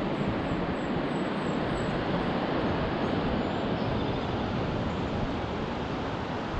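Steady rushing roar of Pacific Ocean surf, picked up by a GoPro's built-in microphone. Faint high chirps sound in the first two seconds.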